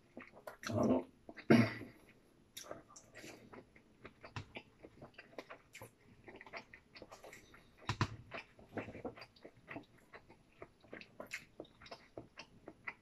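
A person chewing food with the mouth, with small clicks and scrapes of wooden chopsticks against a plastic food container. Two louder sounds stand out about a second in.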